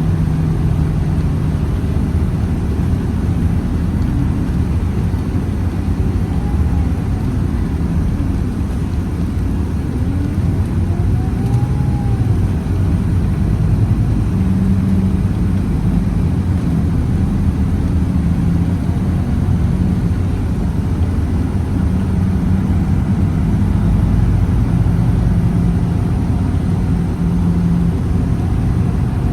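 Scania Citywide city bus with a compressed-natural-gas engine running continuously as it drives. A low engine drone rises and falls in pitch, with a humming tone that fades out and returns.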